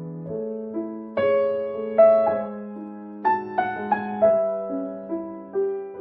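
Background piano music: slow chords and a melody, notes struck and left to ring.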